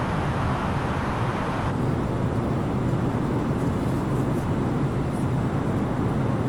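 Steady cabin noise of an Airbus A330-900neo in flight: the rush of airflow over a low drone from its Rolls-Royce Trent 7000 engines. The higher hiss drops somewhat a little under two seconds in.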